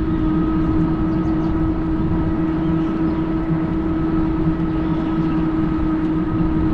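Fat-tire electric bike under way, its motor giving a steady, unchanging whine over a constant low rumble.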